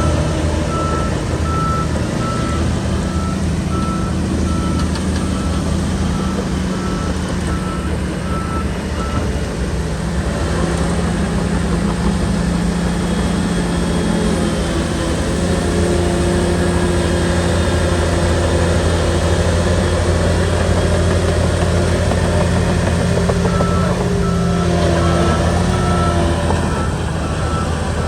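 SHANTUI bulldozer's diesel engine running under steady work, its note shifting about ten seconds in, while its reversing alarm beeps evenly for the first nine seconds and starts beeping again near the end.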